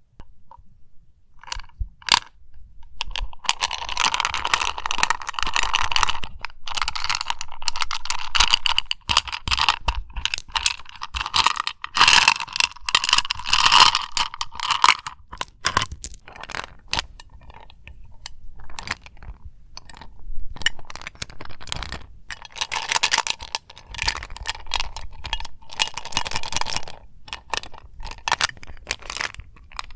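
Eclipse mint tin tapped with fingertips and nails: a few separate metallic clicks at first, then long runs of rapid tapping that ring and rattle, easing off around the middle and picking up again later.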